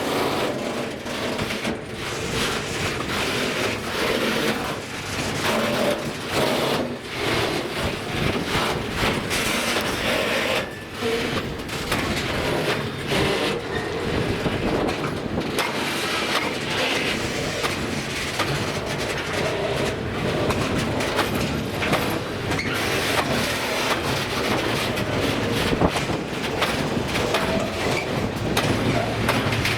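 A train running past, with a continuous rapid run of wheel clicks over the rail joints and a steady rumble.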